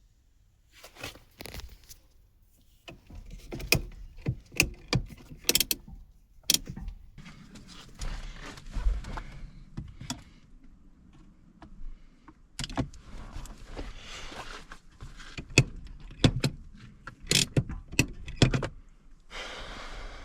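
Hands working at an E46 handbrake lever mechanism: irregular sharp clicks, knocks and rustling of plastic and metal parts being handled.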